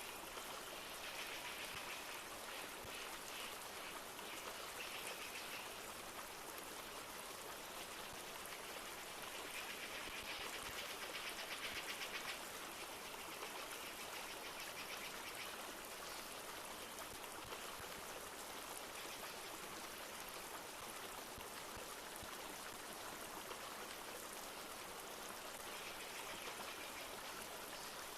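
Flowing river water running steadily. High, rapid trills come and go three times: near the start, around the middle and near the end.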